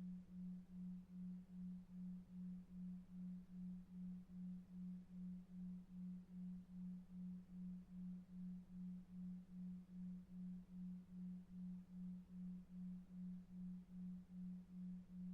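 A low pure tone pulsing evenly about two and a half times a second: a 2.5 Hz delta-wave sleep tone, over faint brown noise.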